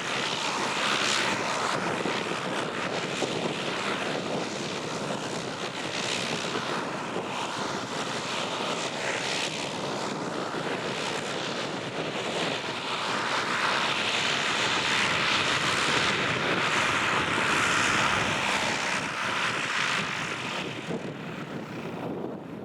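Propeller engine of a single-engine light aircraft running, with wind noise on the microphone. It grows louder in the middle of the stretch and eases off near the end.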